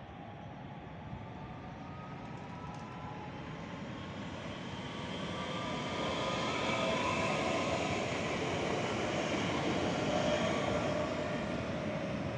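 A train approaching: its running drone grows steadily louder for about six seconds and then holds, with faint whining tones that rise slightly in pitch.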